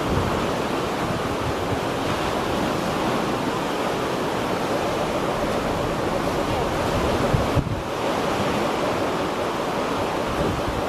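Choppy sea waves washing with a steady wind, and gusts buffeting the microphone in low rumbles.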